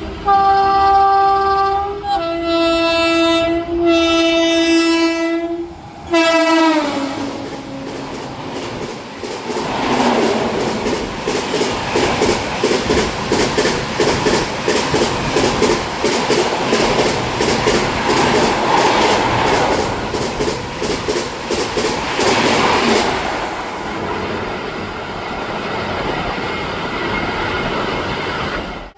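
An Indian Railways express train sounds its horn while approaching at speed. The horn's pitch drops sharply about six seconds in as the train passes, then a long run of rapid, rhythmic wheel clatter over the rail joints follows and fades away near the end.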